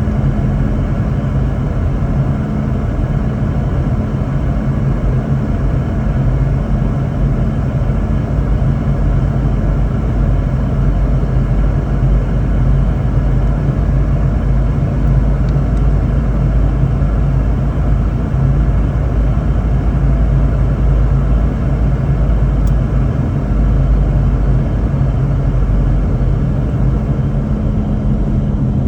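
Boeing 717-200 cabin noise: the steady low rumble of airflow and the rear-mounted Rolls-Royce BR715 engines, with a constant low hum, heard from inside the passenger cabin.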